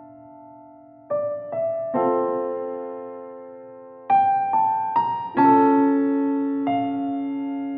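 Background piano music: slow notes and chords struck one after another and left to ring out, with a quiet gap of about a second before the first new chord.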